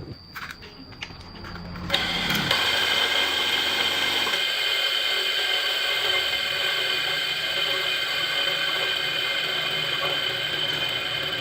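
A small machine's motor starts up about two seconds in and runs steadily with a high whine, after a few light clicks.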